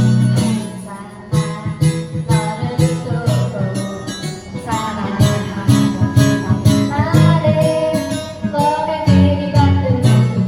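Background music: a relaxed bossa nova track with plucked acoustic guitar over a steady beat and a gliding melody line.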